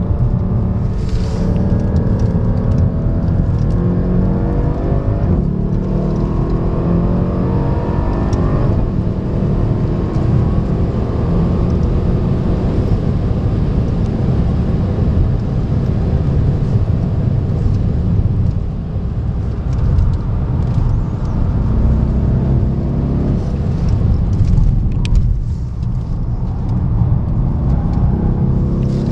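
Mercedes C63's V8 heard from inside the cabin under hard acceleration: the revs climb and drop back through gear changes in the first nine seconds or so, then it runs at high load with a heavy low rumble and road noise, easing off briefly twice.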